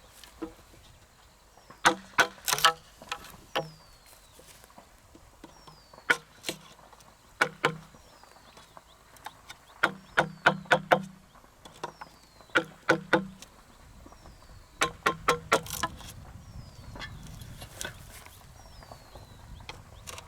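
Sharp ringing strikes in quick groups of two to four, a few seconds apart. A short, high falling whistle repeats about once a second, and a low rumble comes in near the end.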